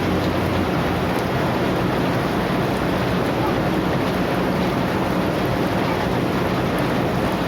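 Heavy rain pouring down in a steady, loud, unbroken hiss, with a faint low hum underneath.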